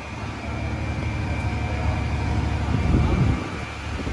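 Low vehicle and engine rumble of city street traffic, swelling louder about three seconds in.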